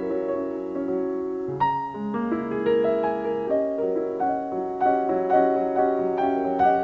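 Solo piano playing a slow classical passage, with held chords struck afresh every half second or so and a change of harmony about a second and a half in.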